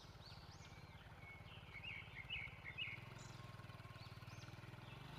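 Faint birdsong: a bird repeats short, high, rising-and-falling notes about once a second, with a brief flurry of chirps about two seconds in, over a low steady hum.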